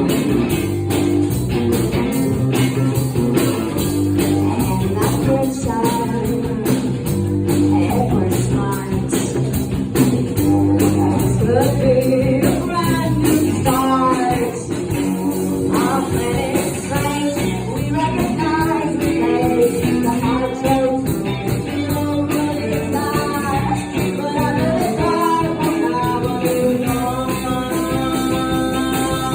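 A rock band playing live, with guitar over a steady drum beat and a singer's voice coming in over them.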